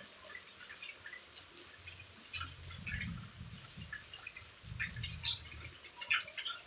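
Rain falling, heard as scattered drips and ticks of individual drops, with a low rumble swelling twice in the middle.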